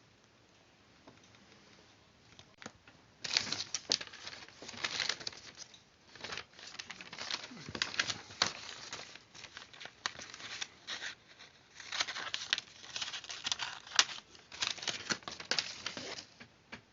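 Paper being handled, rustling and crinkling in irregular bursts with sharp little snaps, starting about three seconds in and stopping shortly before the end.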